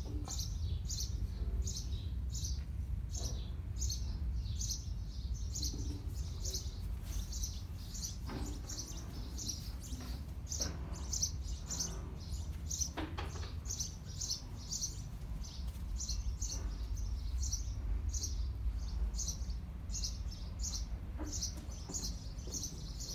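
Small birds chirping continuously, a run of short, high chirps about three a second, over a steady low rumble.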